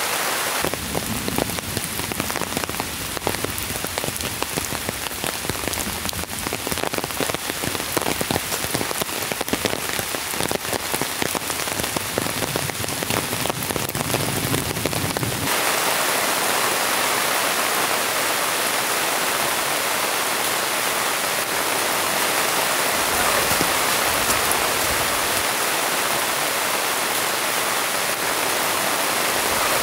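Heavy rain falling. For the first half it is a dense spray of separate drop hits close by; about halfway it changes abruptly to an even, steady hiss of downpour.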